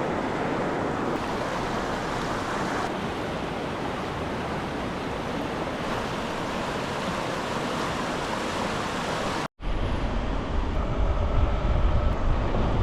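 Steady rush of a fast mountain river. About nine and a half seconds in, it cuts off sharply and a louder low rumble takes over.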